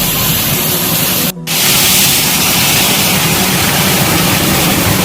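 A waterfall's water rushing with a loud, steady hiss. It breaks off for a split second about a second and a half in, then carries on.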